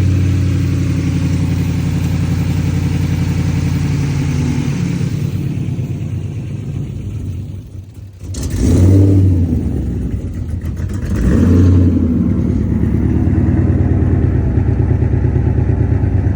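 Ford Crown Victoria's 4.6-litre V8 idling while it warms up after a thermostat change. About halfway through it is revved twice in short rises and falls, then settles back to a steady idle.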